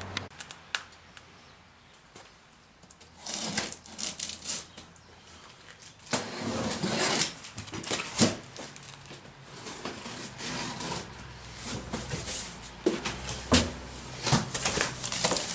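Cardboard box and packaging being opened and handled: irregular rustling and scraping with scattered clicks and knocks, quieter for the first few seconds.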